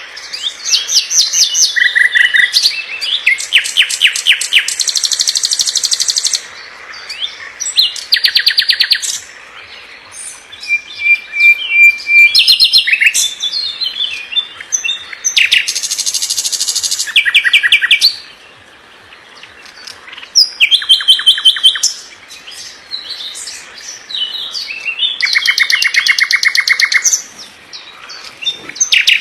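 A songbird singing a fast, varied song: phrases of rapid trills of repeated notes follow one another with short pauses between them, and a brief steady whistle comes a little before the middle.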